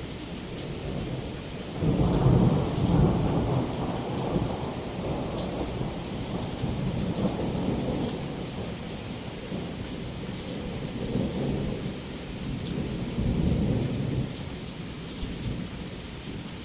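Heavy rain pouring steadily against a window, with thunder rumbling: a loud peal about two seconds in, then further rolling rumbles swelling again near the end.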